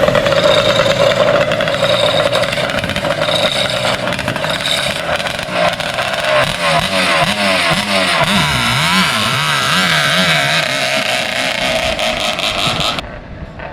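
550cc jet-ski engine with a tuned exhaust pipe running hard in a racing boat, its pitch wavering up and down with the revs. The sound drops off sharply about a second before the end.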